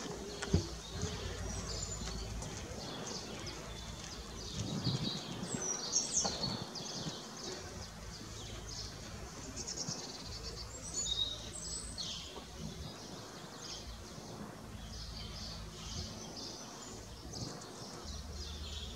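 Small birds chirping and singing, with short trilled notes coming again and again, over a steady low rumble. A single sharp click sounds about half a second in.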